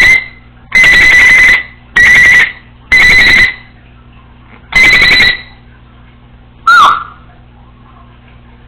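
Congo African grey parrot mimicking an electronic beeper: five loud, steady-pitched beeps at uneven intervals, then a short whistle that dips in pitch.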